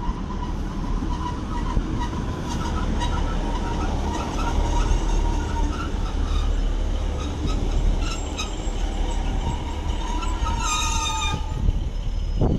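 Northern Sprinter diesel multiple unit running in along the platform and braking to a stop: a steady rumble of wheels and underfloor engine, with a thin brake squeal, short squeaks and a louder high-pitched brake squeal for about a second near the end.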